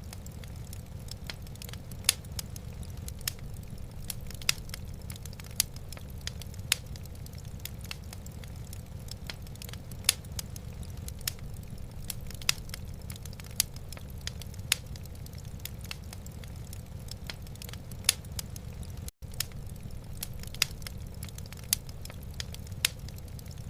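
Wood fire crackling in a fireplace: irregular sharp pops and snaps, a few of them much louder, over a steady low rumble. The sound cuts out for an instant about nineteen seconds in.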